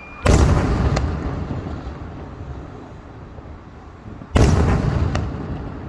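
Two fireworks aerial shells, heart-pattern shells, bursting about four seconds apart. Each deep boom is followed under a second later by a sharper crack, and then a rumble that slowly dies away.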